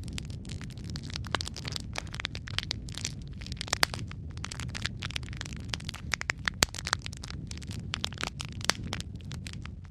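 Wood fire crackling in a fireplace: frequent sharp, irregular pops and snaps over a steady low rumble of flames.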